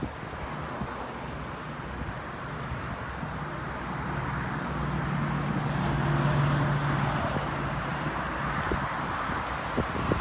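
A car engine running with a steady low hum that swells for a few seconds and then fades, over wind noise.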